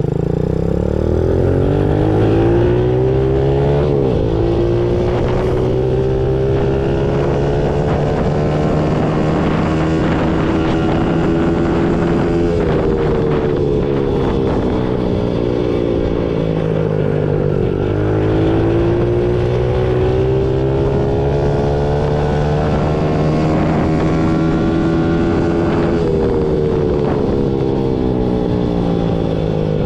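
Trailmaster TM15 110cc single-cylinder four-stroke dirt bike engine running under way. Its pitch climbs and then drops back several times as the bike speeds up and eases off or shifts.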